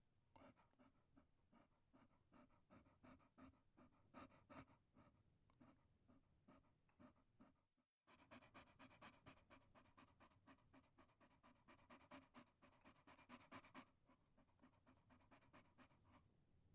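Chihuahua panting quietly and rapidly, several breaths a second, with a brief break about halfway through.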